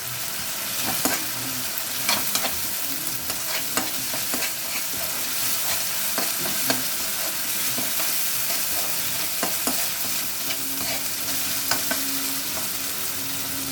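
Tomato and ginger-garlic masala sizzling in oil in a kadai while a spatula stirs and mashes it, clicking and scraping against the pan every second or so.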